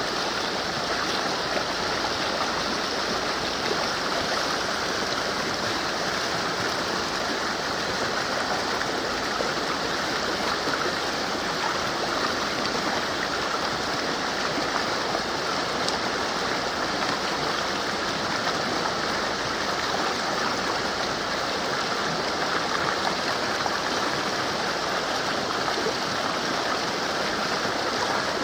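Mountain river rushing steadily over rocks, a constant even roar of flowing water.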